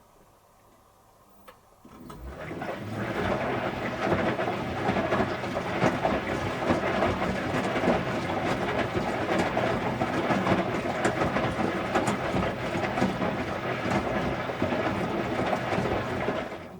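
Electrolux Wascator W355H commercial washing machine running: a loud, steady mechanical rush with a hum in it comes on about two seconds in and cuts off sharply near the end.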